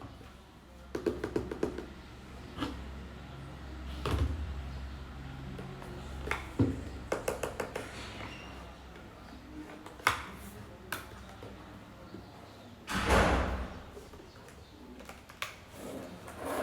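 An art supply kit and its packaging being handled and opened: quick runs of light clicks and taps, several sharper knocks, and a brief scraping rustle about thirteen seconds in.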